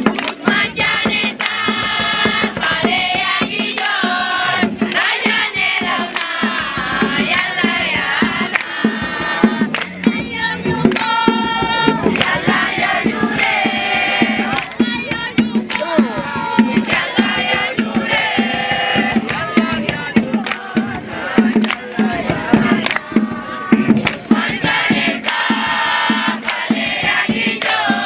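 A group singing together in chorus, with sharp beats recurring throughout.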